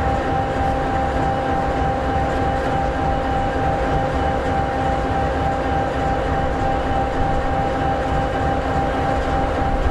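EMD 16-710G3B two-stroke V16 diesel of an SD60E locomotive idling steadily: an even low rumble with a steady high whine held over it.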